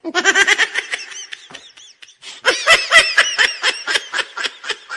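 Laughter: quick rhythmic ha-ha bursts in two spells, the second, about two and a half seconds in, the louder.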